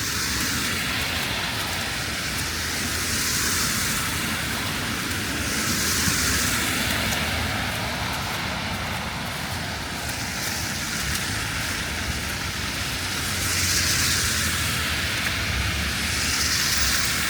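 Traffic on a wet city street: tyre hiss from passing cars swells and fades about five times, over a steady low rumble and the wash of light rain.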